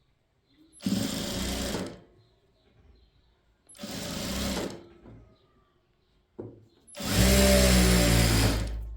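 Electric sewing machine running in three short bursts of stitching with pauses between: two of about a second each, then a longer one of nearly two seconds near the end.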